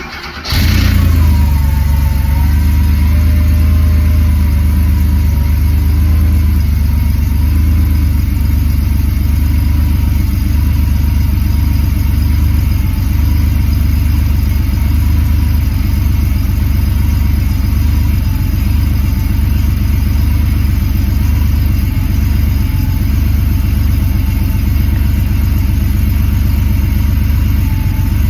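1986 Porsche 911 Turbo's air-cooled, turbocharged 3.3-litre flat-six cranking briefly and catching on a cold start, then idling steadily.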